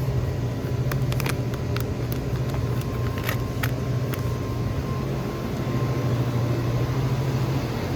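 Steady low machine hum with a faint high tone above it, and a few sharp clicks between about one and four seconds in.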